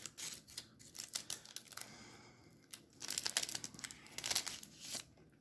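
Shiny plastic wrapper of a trading card pack crinkling as it is torn and peeled open, in irregular crackles with a short lull about two seconds in.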